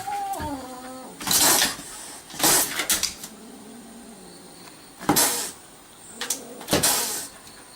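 An angry cat yowling, then hissing in four short bursts, with a low growl under the later hisses.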